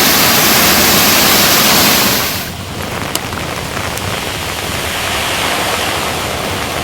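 Steady rain falling, loud and hissing for the first two seconds or so, then abruptly quieter and lighter, with a drip or two ticking through it.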